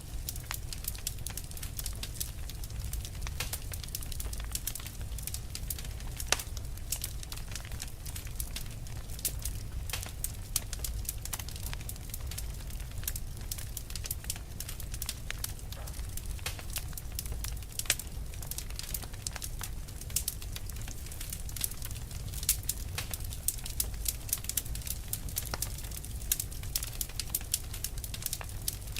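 Fire burning with a steady low rumble and dense, irregular crackling, with scattered louder pops.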